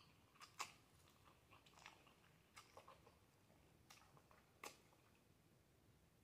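Faint wet chewing and lip smacking of a mouthful of saucy black bean noodles, with scattered sharp mouth clicks, the loudest about half a second in and just under five seconds in.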